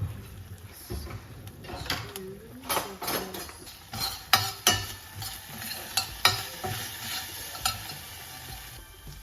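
Ginger and garlic sizzling in hot oil in a pan while a spoon stirs them, the utensil scraping and clicking against the pan several times, loudest about four to six seconds in.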